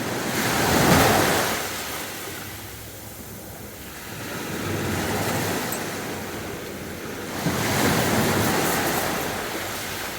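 Sea waves breaking on a beach. A loud wave breaks about a second in, a smaller one follows near the middle, and another large one breaks about seven and a half seconds in, with steady surf hiss in between.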